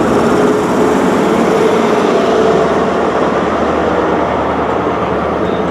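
Class 43 HST diesel power car running loudly close by as the CrossCountry High Speed Train pulls out, a steady engine drone with a faint hum through it.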